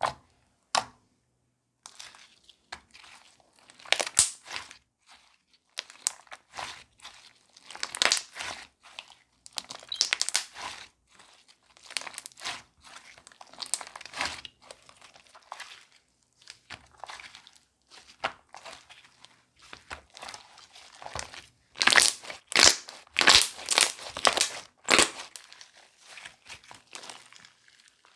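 Slime being squished, stretched and folded by hand, making irregular runs of crackly, crinkly pops and clicks, loudest and densest a few seconds before the end.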